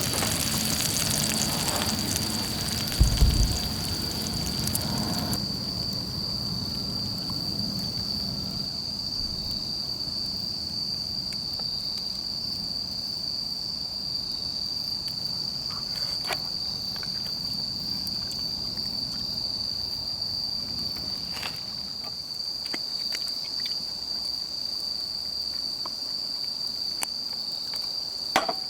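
Insects trilling steadily at one high pitch. For the first five seconds or so food sizzles over the campfire, stopping abruptly, with a low thump about three seconds in and a few faint clicks later on.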